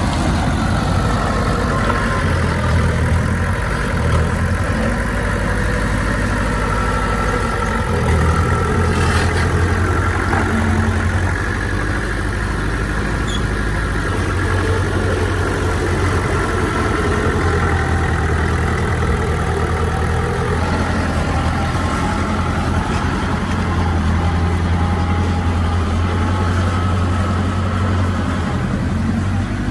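Heavy diesel engine of earthmoving machinery running steadily, its engine speed shifting up and down slightly every few seconds as the load changes.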